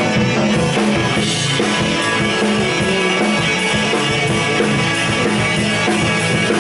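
Live rock band playing an instrumental passage between vocal lines: electric guitars, bass and drum kit.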